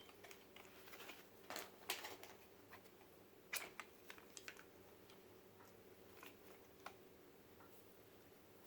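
Faint, scattered clicks and taps of something being handled, a few louder ones in the first four seconds, over quiet room tone.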